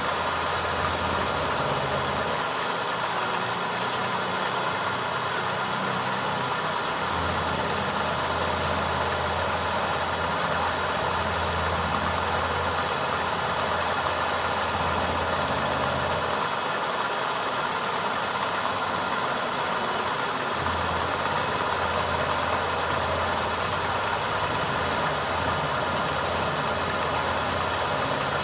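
A machine running steadily with a dense, even noise. A low hum under it cuts out twice for a few seconds and comes back.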